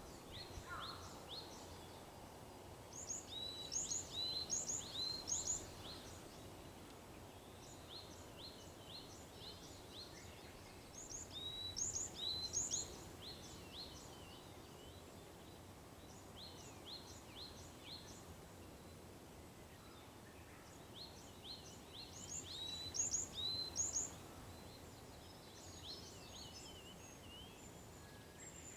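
A small songbird sings three bursts of rapid, high, repeated notes, each lasting about two seconds and spaced several seconds apart, with softer scattered calls in between. A steady low outdoor background hum runs underneath.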